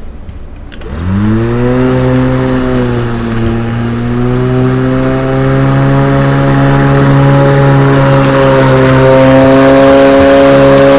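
Electric lawn mower motor switched on about a second in, spinning up with a quick rising whine, then running at a steady hum.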